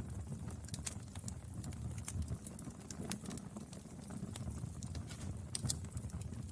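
Firewood burning, with a steady low rumble and frequent sharp crackles and pops.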